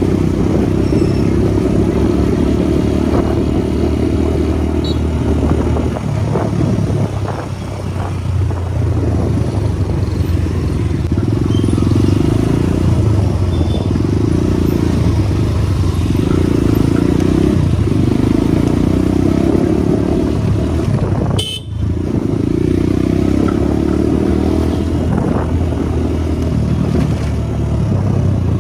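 Motorcycle engine running while riding, with a steady low drone and wind noise that swells and fades on the microphone. The sound drops out for a split second about three-quarters of the way in.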